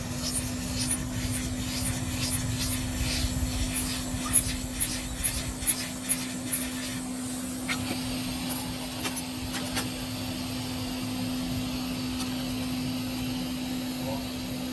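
A small electric motor or fan starts and hums steadily at one pitch. Over it, light regular ticks come about two or three a second for the first several seconds, then a few sharp clicks.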